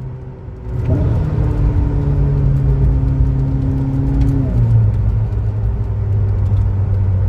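Ferrari SF90 Stradale's twin-turbo V8 heard from inside the cabin. It picks up about a second in and holds a steady drone, then drops to a lower, steady pitch about four and a half seconds in.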